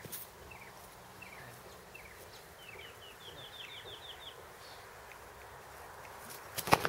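A songbird calling a string of short, falling chirps that speed up into a quick run of notes. Near the end come a few sharp knocks, the loudest sounds.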